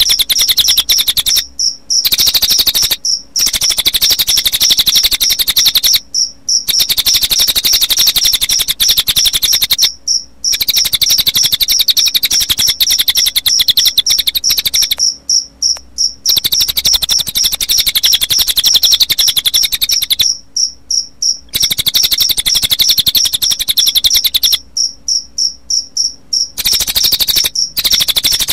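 Recorded cililin bird calls mixed with cricket chirping: a loud, fast, even, high trill that runs on with short breaks every few seconds.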